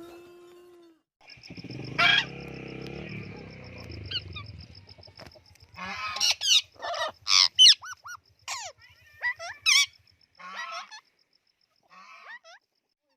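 Geese honking: a run of loud, harsh calls in quick succession from about six seconds in, thinning to a few fainter calls near the end. Before them, a low rumble with a single sharp crack about two seconds in.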